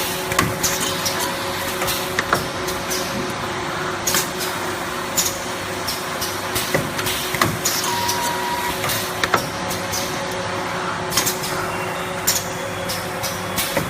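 Automatic blister packing machine running: a steady machine hum with irregular clicks and knocks from its moving parts, and a short beep about eight seconds in.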